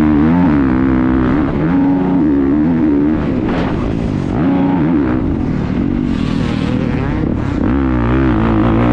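Motocross bike's engine heard from a camera mounted on the bike, revving up and falling back again and again as the rider works the throttle. There are a few short rushes of noise in the middle.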